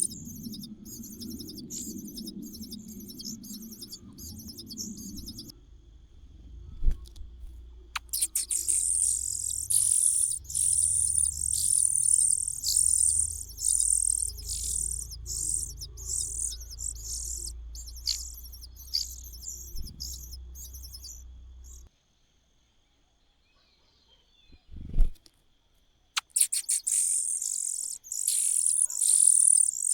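Nestling birds begging: rapid, high-pitched chirping calls in dense runs. They break off for a few seconds about two-thirds of the way in, where a single knock is heard, then start again.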